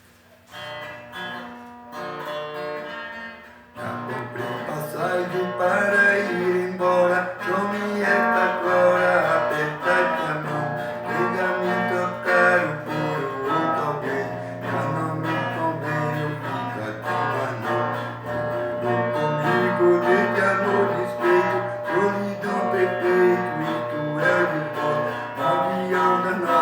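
Instrumental introduction of a song led by plucked and strummed acoustic guitar: a sparse, quieter opening, then a fuller accompaniment coming in about four seconds in.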